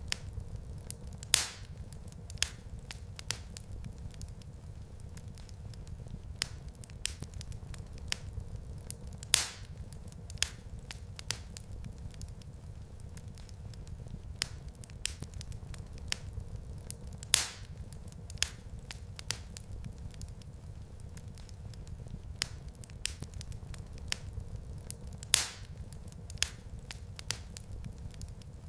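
Wood fire in a fireplace crackling steadily over a low rumble of flames, with frequent small snaps and a louder pop about every eight seconds.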